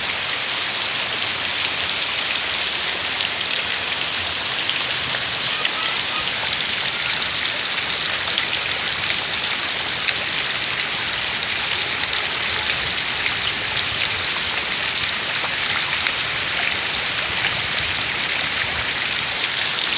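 Heavy rain falling steadily, an even dense hiss of rain on surfaces.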